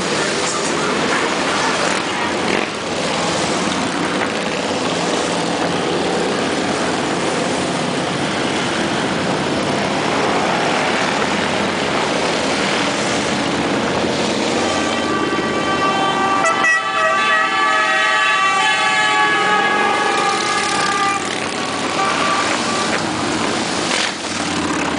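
Motorcycle procession passing in a steady stream, many engines running together. A vehicle horn sounds past the middle and holds for about six seconds.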